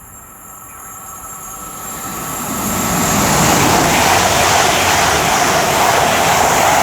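CrossCountry Voyager diesel-electric multiple unit approaching and passing at speed. The rush of its wheels and engines builds over about three seconds, then holds loud and steady.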